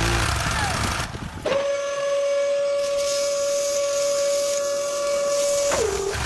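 A single long, steady whistle tone lasting about four seconds, starting about a second and a half in and sliding down in pitch as it stops.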